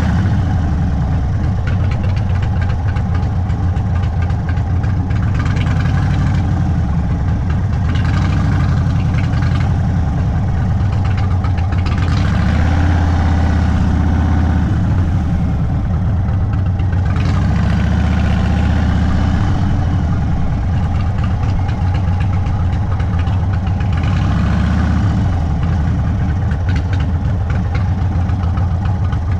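Indian Sport Chief's V-twin engine through an aftermarket Sawicki Speed exhaust, running at low speed. Its note rises and falls several times as the throttle is opened and closed.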